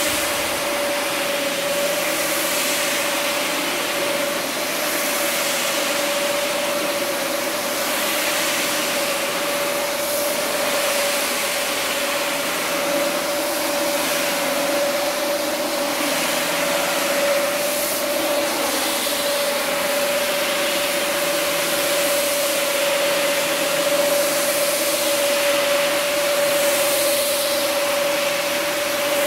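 Carpet-cleaning machinery running steadily: a motor's constant whine under a hiss that swells and fades every second or two as the tool sweeps over the wet rug.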